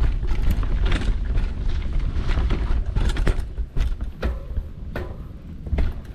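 Mountain bike rolling over a rough trail, heard from a GoPro mounted on the rider or bike: a heavy low rumble of wind buffeting the microphone, with irregular knocks and rattles from the bike jolting over bumps.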